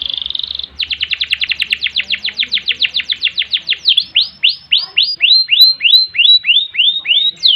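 Domestic canary singing a long rolling song: a fast buzzing roll, then a rapid run of falling notes about ten a second, which slows about halfway into swooping notes about three a second.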